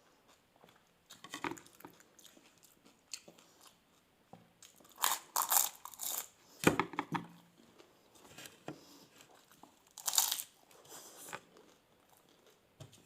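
A person biting into and chewing doi fuchka, crisp puri shells filled with yogurt, crunching in irregular bursts. The loudest crunches come about five to seven seconds in and again about ten seconds in.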